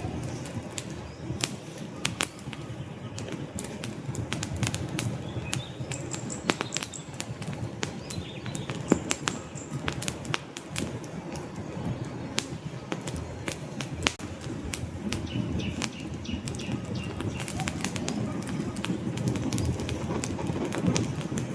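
Wood fire burning in a fireplace: irregular crackles and sharp pops of the burning logs over a steady low rush of flame.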